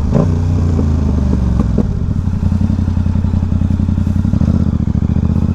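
Motorcycle engine running at low revs as the bike rolls slowly, its note dropping to a slower, even pulse about two seconds in.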